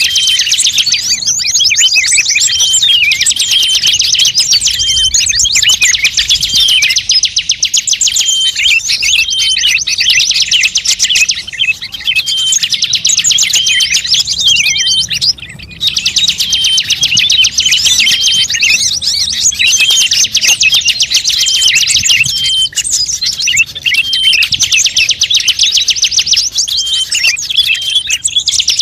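Loud, high-pitched songbird calls in rapid chattering trills, repeated almost without pause and broken once briefly about halfway through: a bird-luring (pikat) call recording.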